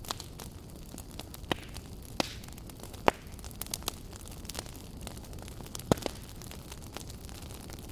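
Wood fire burning in a fireplace: a steady low hiss with irregular sharp crackles and pops, a few loud ones standing out.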